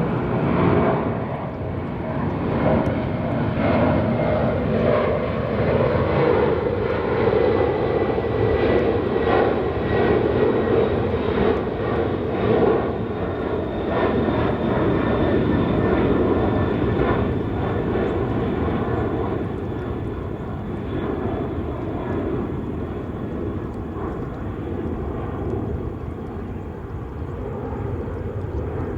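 Heavy widebody jet airliner's engines at full takeoff power during climb-out, a loud rumble with crackle that slowly fades over the last part as the plane moves away.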